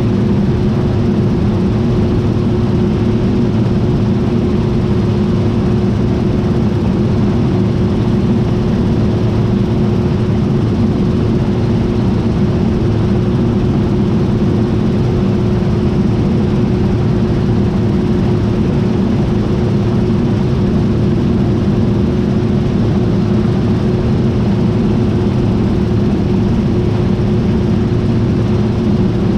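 John Deere T660i combine harvester running steadily: an even, unbroken drone with one steady hum-like tone held through it.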